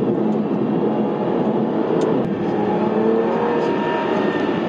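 Aston Martin Virage's 490 hp V12 engine running steadily with the car under way, its engine note holding fairly even with small shifts in pitch.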